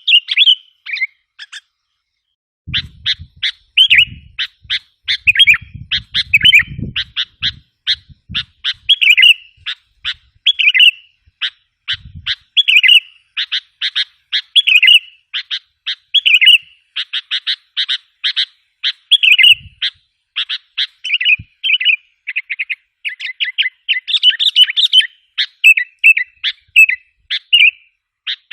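Sooty-headed bulbul (kutilang) calling in a fast, loud run of sharp chirps and short warbled phrases, the lure call used to draw in wild bulbuls. There is a short pause about a second in.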